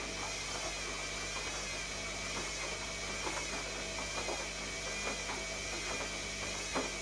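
Zanussi ZKN7120L washing machine running a cycle: a steady motor whine that wavers slightly in pitch over a hiss and low hum, with scattered light ticks and knocks.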